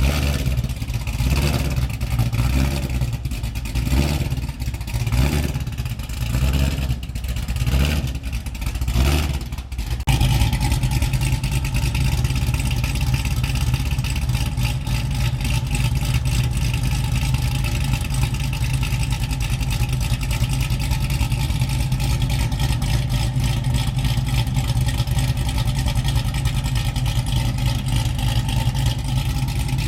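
Cammed Cadillac CTS-V supercharged V8 running just after its first start since the cam swap. For about the first ten seconds it sounds uneven, swelling and dipping. Then it changes abruptly to a steady, even run.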